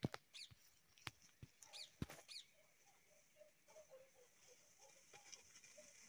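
Faint bird chirps: a few short, arching high calls in the first couple of seconds, with fainter small calls through the rest, along with several sharp clicks.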